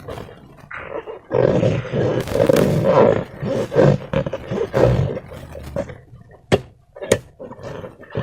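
Slime being squeezed and kneaded by hand, squelching wetly, with two sharp little pops of trapped air near the end.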